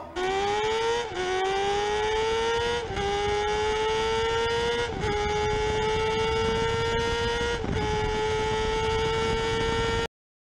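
Suzuki GSX-R 750 inline-four sport bike engine pulling hard at full throttle, heard from the rider with wind rush. It upshifts four times, the pitch dropping at each shift and climbing again. In the last gear it climbs only slowly as the bike runs out of gearing. The sound cuts off abruptly about ten seconds in.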